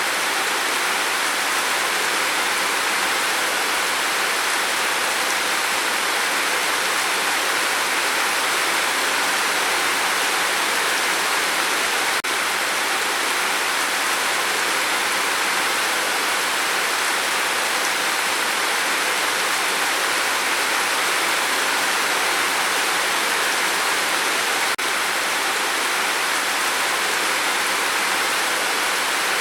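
Steady rain falling, a dense, even hiss with no pauses or changes.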